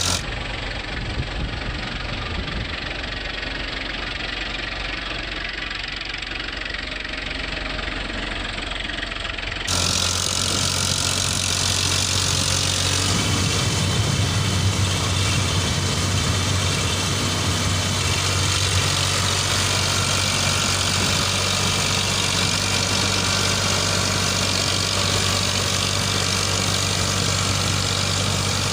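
Eicher 557 tractor's diesel engine running steadily with a low hum. About ten seconds in, the sound changes abruptly and becomes a little louder.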